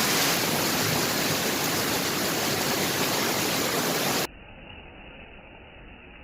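Steady hiss of heavy rain, cutting off suddenly about four seconds in to a much fainter, duller noise.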